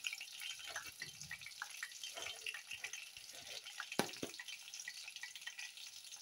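Drumstick-flower pakoras (besan-coated drumstick flowers) sizzling and crackling as they deep-fry in hot oil in a kadai. There are two sharp clicks about four seconds in.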